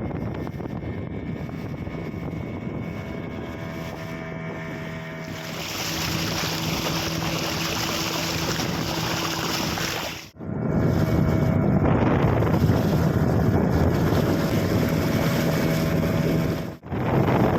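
Fishing boat's engine running steadily under way, with the rush of water and wind along the hull. The sound breaks off abruptly for an instant about ten seconds in and again near the end, where the footage is cut.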